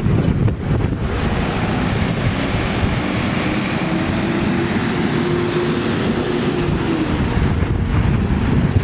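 A vehicle passing by, its steady rushing noise and hum building up about a second in and dying away near the end, over wind rumbling on the microphone.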